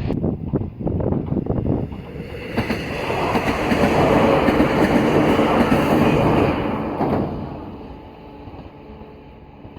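Sangi Railway train passing on the line: wheels clacking over rail joints in the first two seconds, then a louder rush as the train goes by from about three to seven seconds in, fading away near the end.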